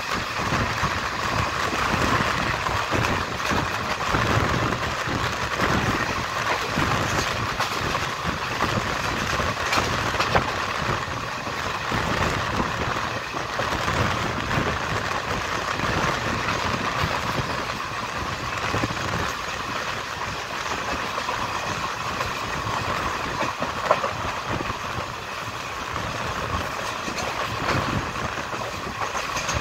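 Train running along the track: a steady running noise with a low rumble underneath and a few sharp clicks.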